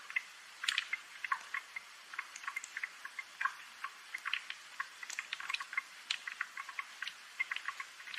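Light rain: scattered drops tick and tap irregularly over a soft hiss.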